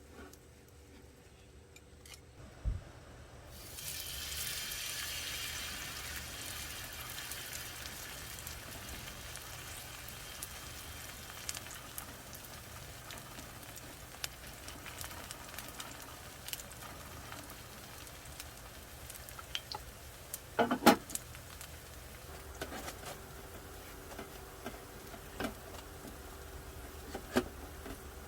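Food sizzling in a hot pan: the sizzle starts suddenly a few seconds in, just after a knock, and slowly dies down. Scattered clicks and knocks run through it, with a louder clatter about two-thirds of the way in.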